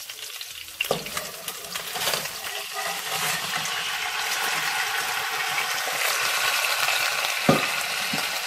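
Raw crab pieces tipped from a steel bowl into hot oil in a pan, the oil sizzling louder as more crab goes in. A few knocks of shell or bowl against the pan, the sharpest near the end.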